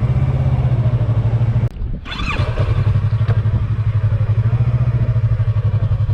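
Yamaha R3's 321 cc parallel-twin engine idling steadily through its stock exhaust, with a brief dip about two seconds in.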